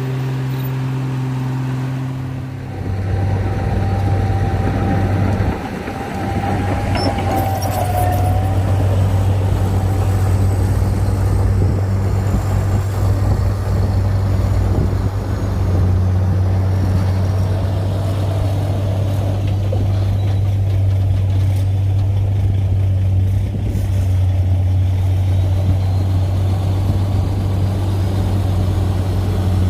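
Bulldozer's heavy diesel engine running steadily under load, growing louder about three seconds in and easing briefly a few times, with a short high squeal early on.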